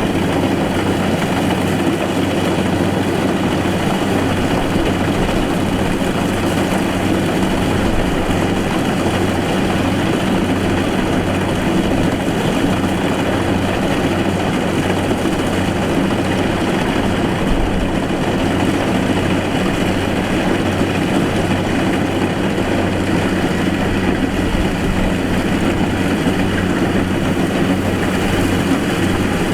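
Rice combine harvester's diesel engine running steadily at constant speed, with an even low drone and no change in pitch or level.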